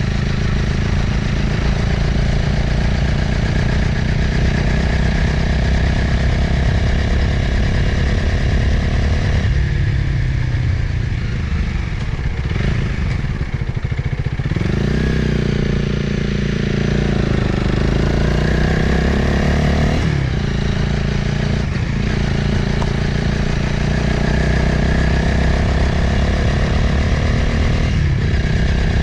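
Motorcycle engine running while riding, with wind rushing over the microphone. About a third of the way in the engine eases off, then its pitch rises and falls for several seconds before it settles back into steady cruising.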